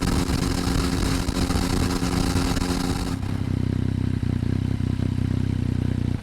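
Yamaha MT-09's three-cylinder engine running through an SP Tadao aftermarket exhaust, heard close to the muffler. For about three seconds the engine note comes with a loud hiss; then it changes suddenly to a deeper, steadier exhaust note with the hiss gone.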